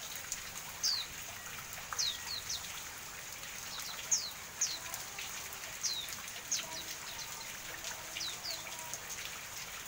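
Pleci auri white-eye calling: short, high chirps that slide downward, a few each second at irregular intervals, over a steady hiss of rain.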